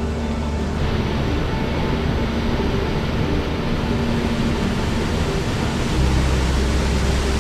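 Steady rush of a rain-swollen mountain stream, coming in more strongly about a second in, over soft sustained background music.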